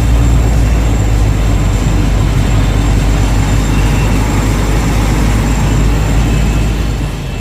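1998 Toyota Estima minivan being driven: a steady low engine and road rumble that fades out near the end.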